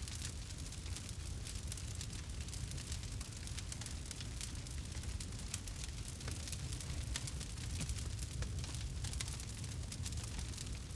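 Campfire burning, with many small irregular crackles and pops over a steady low rumble of the flames.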